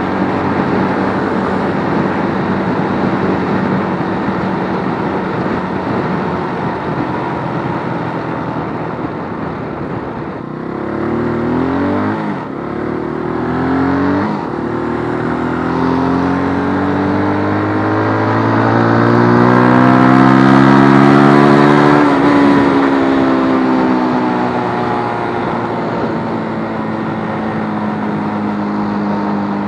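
Keeway RKF125 125 cc single-cylinder motorcycle engine under way: running steadily, then accelerating with two quick rises in pitch each cut off by a gear change, a long climb in pitch and loudness, and the throttle closing a little past twenty seconds in, settling back to a steady cruise.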